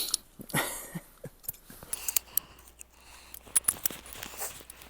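Scattered light clicks and small metallic handling noises from a revolver being handled, with no shot fired.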